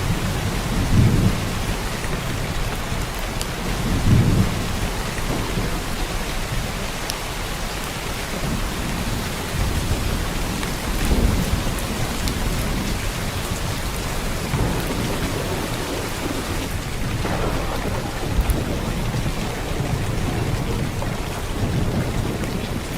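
Heavy downpour of rain, a steady dense hiss, with several brief low rumbles swelling up through it.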